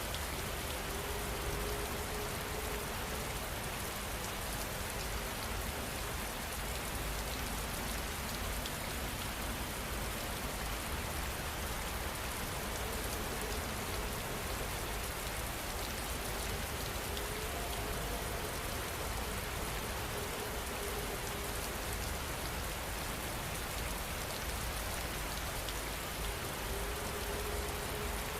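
Steady rain falling on a surface, an even, unbroken hiss of drops that neither swells nor fades.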